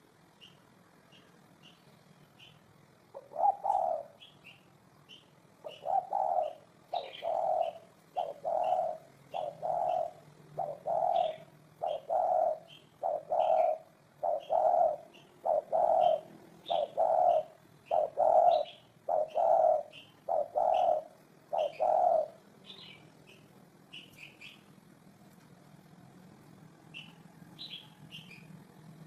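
Spotted dove cooing: a long run of single low coos, about one a second, that stops a few seconds before the end. A faint, high chirp from another small bird repeats a couple of times a second throughout.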